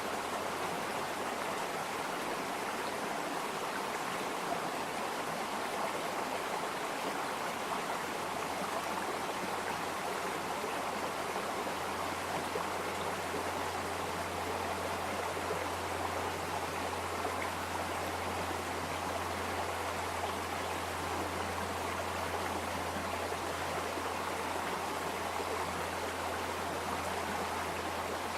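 Stream water flowing steadily, an even rushing babble with a low rumble underneath that grows stronger about halfway through.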